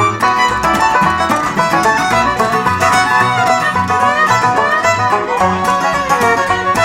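Live bluegrass band playing an instrumental break, with a rapid picked banjo out front over the band's rhythm.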